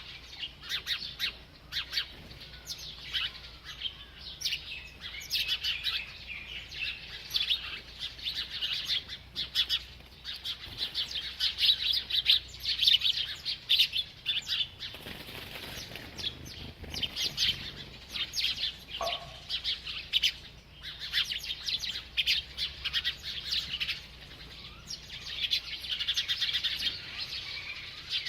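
A bird chirping in quick, high, short chirps almost without pause, with a few brief lulls.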